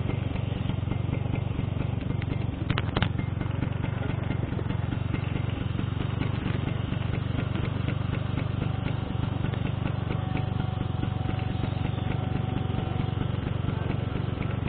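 Motorcycle engine idling steadily, a low even hum, with a couple of sharp clicks about three seconds in.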